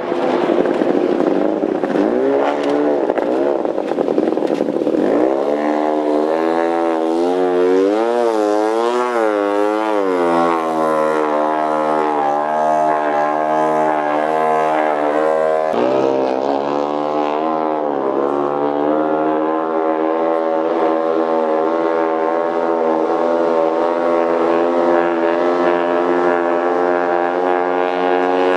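Antique outboard motor running at speed. Its pitch wavers up and down several times about a third of the way in, drops briefly around halfway, then holds steady.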